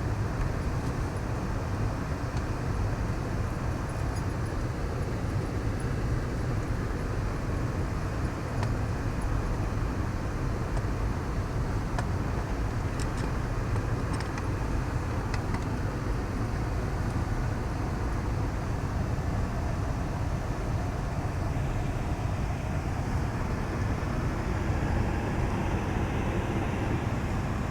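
Steady low rumble of a vehicle driving slowly in four-wheel drive, engine and tyre noise heard from inside a soft-top cabin, with a few faint clicks partway through.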